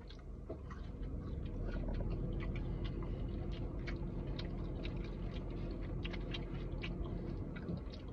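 Close-up chewing of food, with many small wet mouth clicks and smacks scattered throughout, over a low steady hum.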